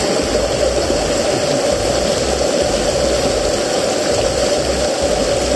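Waterfall rapids rushing steadily, with no break.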